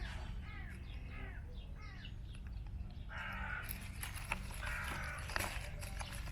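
Crow cawing, a quick run of short repeated caws in the first half, followed by scattered clicks and rustling.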